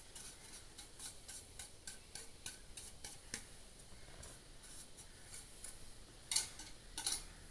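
Light clicks and rattles of table fan parts being handled, a quick irregular run of small ticks, then two louder scrapes near the end.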